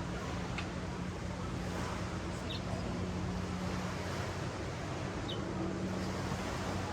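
Ocean surf washing steadily up the beach, with a steady low hum under it and three brief high chirps.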